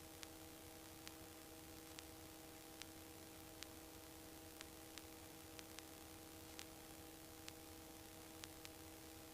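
Near silence on a headset intercom line: faint steady hiss and a low electrical hum, with soft ticks about once a second.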